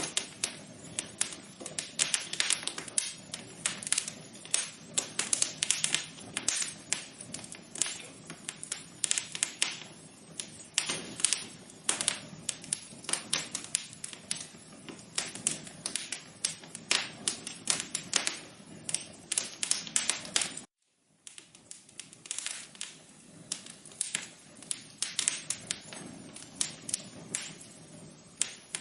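Wood fire crackling in a fireplace: dense, irregular sharp snaps and pops over a faint steady hiss. The sound cuts out completely for a moment about two-thirds of the way through, then the crackling resumes.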